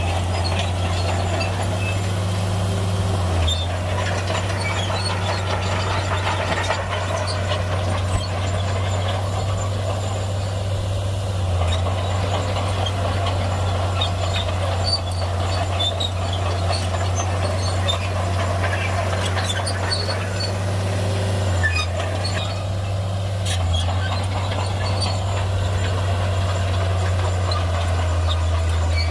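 Heavy Shantui crawler bulldozer's diesel engine running steadily with a constant low drone, with scattered small clicks and clanks over it.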